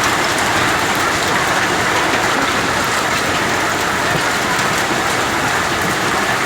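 Heavy rain falling steadily, a dense even hiss with faint scattered ticks of drops striking hard surfaces.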